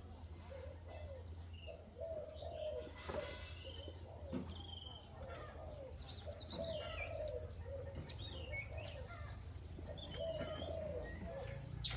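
Birds calling: repeated low warbling calls with higher, sliding chirps over them, above a steady low hum.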